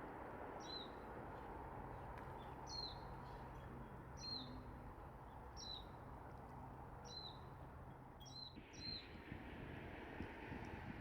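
A small bird repeating a short, high call that drops quickly in pitch, about seven times, over steady background noise.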